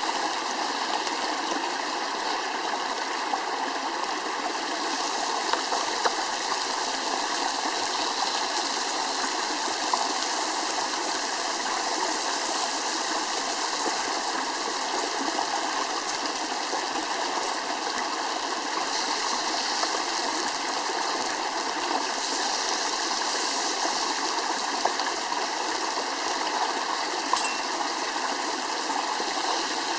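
A stream's water running steadily with an even rush, and a few faint ticks now and then.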